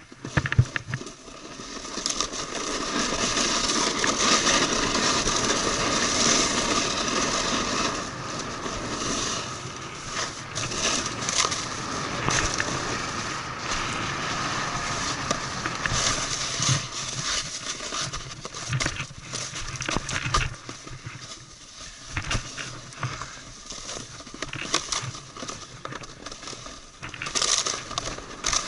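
A snowboard sliding and scraping over snow, with a continuous crackle and frequent clicks from the board chattering on the snow. It is loudest for the first several seconds, then runs on more unevenly.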